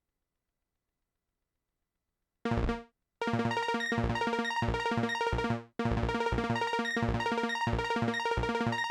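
Silence, then a single short synth hit about two and a half seconds in; from about three seconds a busy looping electronic pattern of pitched synth notes over low drum hits plays from Ableton Live 10's built-in instruments. It cuts off abruptly near the six-second mark and restarts at once, as when a loop is played again.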